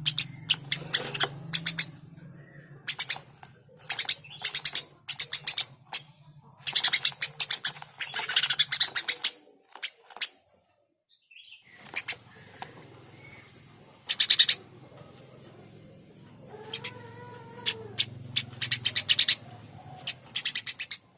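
Eurasian tree sparrow chirping excitedly in rapid volleys of sharp, repeated chirps, with short breaks between runs and a brief pause about halfway through. A lower, drawn-out call sounds about three-quarters of the way in.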